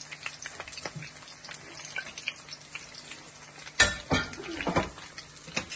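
Food sizzling and crackling as it fries in oil in a pan, with a loud clatter of a utensil or pot about four seconds in.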